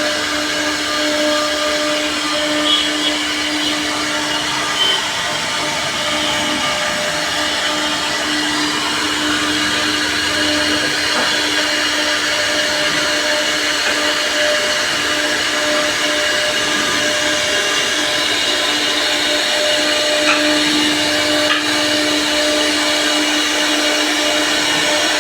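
CNC router spindle running steadily with a constant whine over a noisy hiss, with a few faint knocks.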